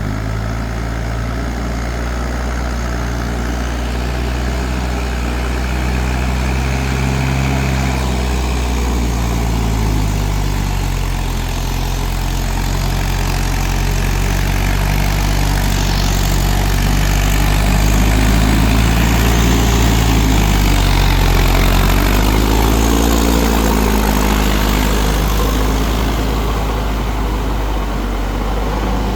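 Mahindra 4WD tractor's diesel engine running loud and continuous, its pitch rising and falling a few times as the revs change, and getting somewhat louder toward the end.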